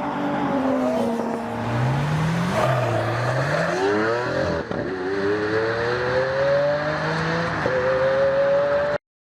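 Acura NSX's twin-turbo V6 engine revving. The pitch rises and falls a few times, then climbs steadily as the car accelerates, and the sound cuts off abruptly near the end.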